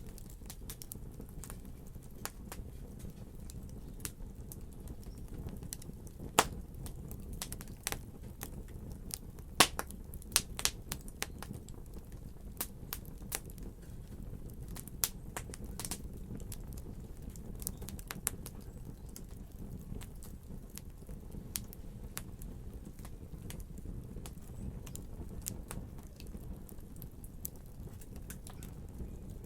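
Wood fire crackling in a fireplace: a low steady rumble of flames with irregular sharp pops and snaps, a few louder pops in the first half.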